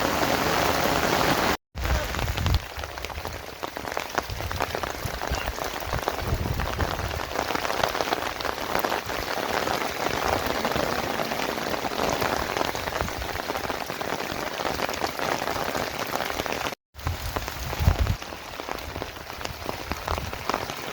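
Steady rain falling, a dense patter of many drops hitting surfaces. The sound cuts out completely for a moment twice.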